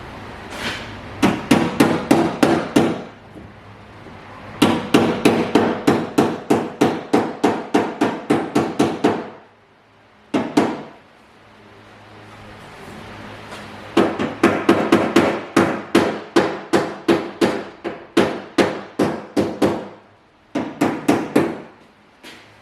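Body hammer tapping rapidly on the car's sheet-metal quarter panel, about five blows a second, in runs of several seconds with short pauses between them. The tapping works down waviness left in the panel after a dent was pulled.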